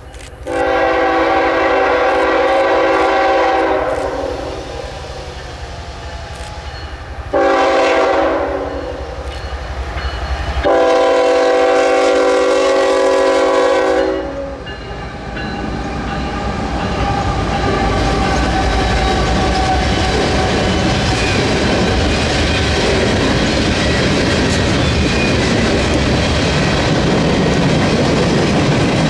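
Freight locomotive air horn sounding a long blast, a short blast and another long blast, a chord of several steady tones. The manifest freight train then passes, its wheels clattering steadily over the rails.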